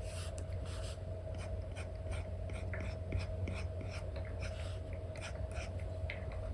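Apple Pencil nib tapping and scratching on a paper-like screen protector over an iPad screen in quick, irregular strokes, over a steady low hum.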